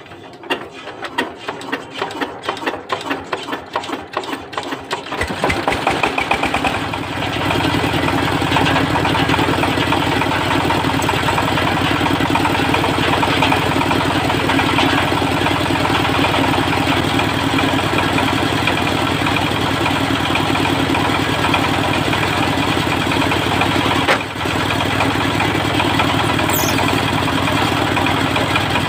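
Dongfeng diesel engine starting: slow, evenly spaced beats, about four a second, for roughly five seconds, then it catches, picks up speed and settles into a steady run.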